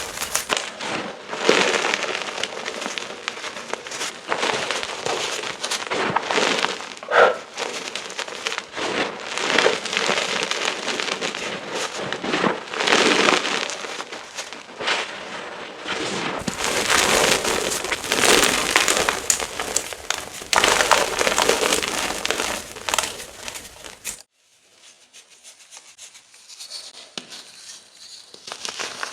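Gym chalk chunks being crushed and crumbled close to the microphone, a dense, fast crunching and crackling. About 24 seconds in it drops suddenly to a quieter, sparser crumbling.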